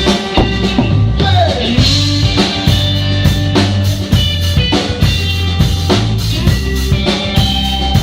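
Rock band playing: a drum kit keeps up a busy beat of kick, snare and rimshots under sustained guitar and bass notes, with one guitar note sliding down in pitch about one and a half seconds in.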